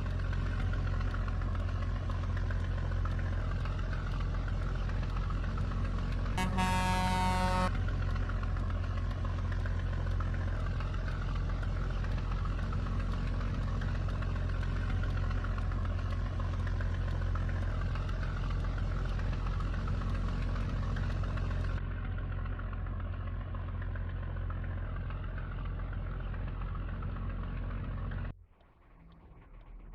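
Scania truck's diesel engine running with a steady deep drone. About six seconds in, a horn sounds once for about a second. Near the end the sound drops off abruptly.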